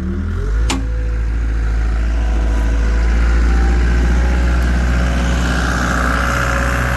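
Caterpillar 252B skid steer's diesel engine revving up over the first second, then running steady at high speed. There is a single sharp click about a second in, and a higher whine builds near the end.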